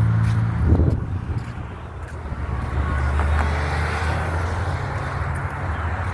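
A motorcycle engine running steadily, its note and level dropping about a second in and building back up a couple of seconds later.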